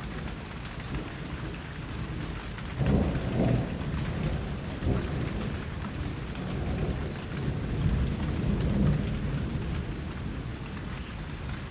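Steady rain falling, with deeper rumbling swells about three seconds in and again near nine seconds.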